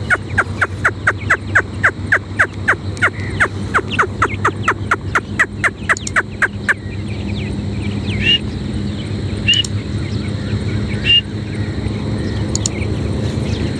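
Francolin (teetar) calling: a fast series of short, sharp, downward-sweeping notes, about four a second, for the first seven seconds. Then three single higher notes that rise and fall, spaced a second or more apart. A steady low hum runs underneath.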